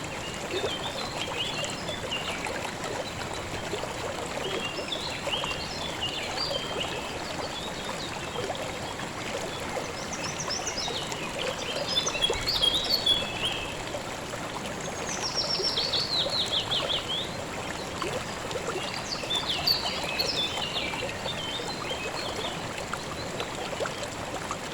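A river running steadily over stones, with songbirds singing short chirping phrases every few seconds above it, including one trill that falls in pitch about two-thirds of the way through.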